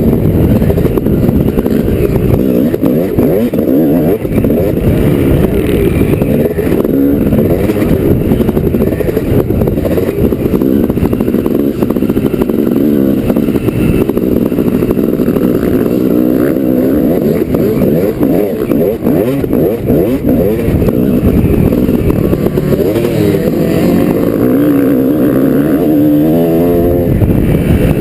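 250-class dirt bike engine revving up and down as it is ridden round a motocross track, heard muffled through a GoPro's case, with a sharp rev climb near the end.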